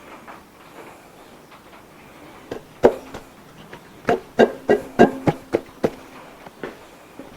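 A run of about ten sharp metallic clinks and knocks, some with a short ring, as the cylinder head and its washers and nuts are fitted over the studs of a Ford flathead V8 block.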